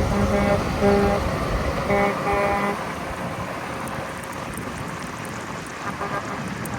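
A vehicle horn sounding a quick series of short blasts over road traffic noise. The blasts stop about three seconds in, and the traffic rumble fades after them.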